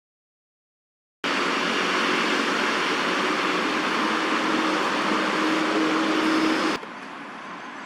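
Steady hum of city traffic, starting abruptly about a second in and dropping suddenly to a quieter level near the end.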